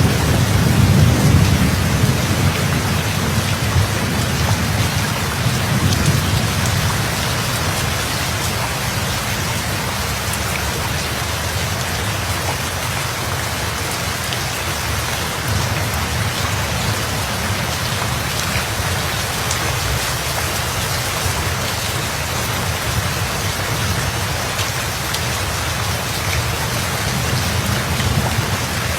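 Steady rain falling. A low rumble of thunder in the first few seconds fades away by about six seconds in.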